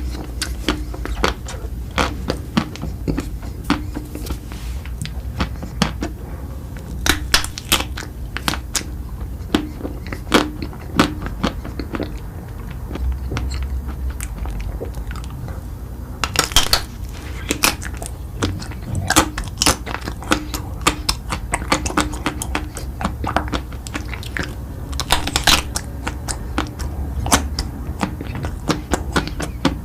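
Chewing and biting of crunchy food: a steady run of sharp crunches, with a few louder bites, over a low steady hum.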